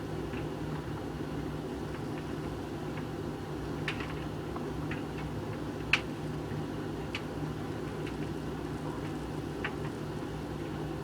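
Hoover VHV680C tumble dryer running with a steady hum as it dries a load of coloureds, with occasional sharp clicks from the tumbling load, the loudest about six seconds in.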